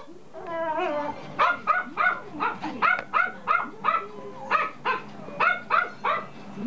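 Toy poodle puppy whining for about a second, then yapping in a rapid run of short, high barks, about three a second.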